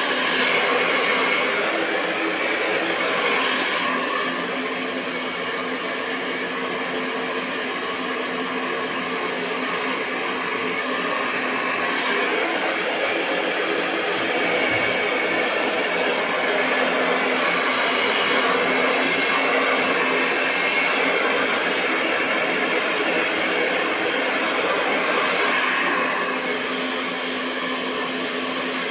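Hair dryer blowing continuously: a steady rushing airflow over a constant motor hum, swelling and easing slightly every few seconds.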